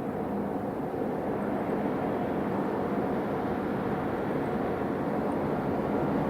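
Jet engines of an Airbus A380 on landing approach: a steady rushing drone with a faint hum, growing slowly louder as the airliner comes closer.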